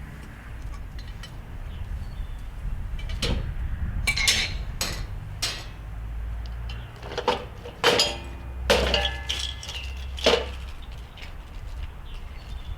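Steel kettle-grill parts clinking and knocking together as they are handled and fitted during assembly: a series of sharp, separate metallic clanks, a few followed by a brief ring.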